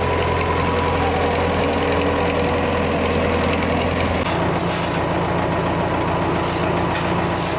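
Heavy engine of road-works machinery running steadily at a low idle-like rumble; the sound shifts about four seconds in, with added rattling noise.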